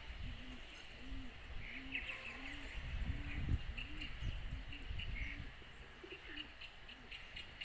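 A pigeon cooing: a run of about a dozen soft, low coos, roughly one every half second, thinning out near the end. Small birds chirp faintly and higher now and then, over a low rumble.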